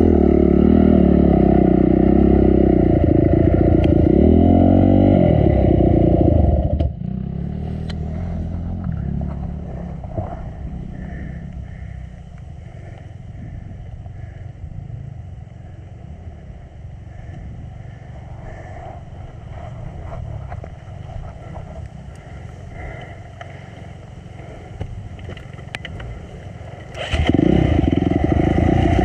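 Dirt bike's single-cylinder four-stroke engine revving hard with rising and falling pitch, dropping abruptly about seven seconds in to a much quieter low running sound for some twenty seconds, then revving loudly again near the end.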